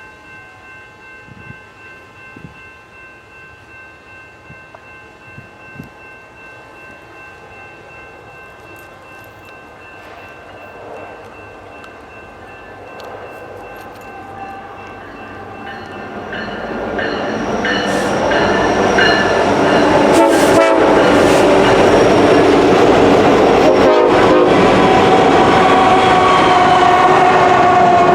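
A diesel train draws near: its rumble swells over a few seconds past the middle, then holds loud as it passes, with sharp clacks from the wheels.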